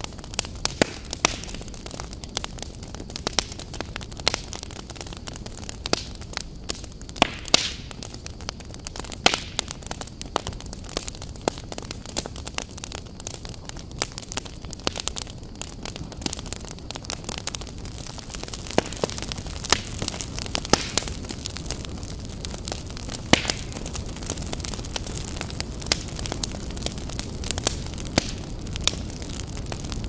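Wood logs burning in a fireplace, crackling with frequent irregular sharp pops over a low, steady rush of flame.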